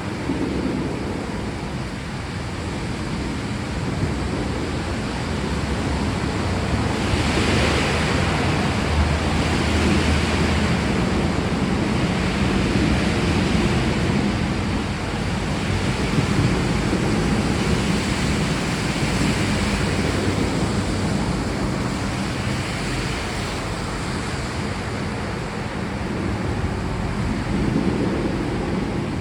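Steady heavy rain, a dense hiss over a low rumble, swelling louder about seven seconds in and easing back in the last several seconds.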